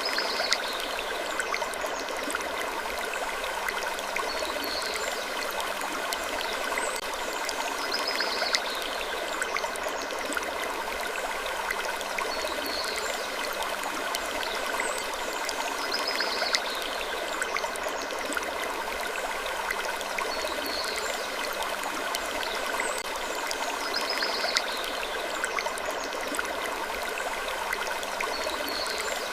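Steady rushing like a flowing stream, with faint short high creaks recurring about every two seconds in a repeating loop.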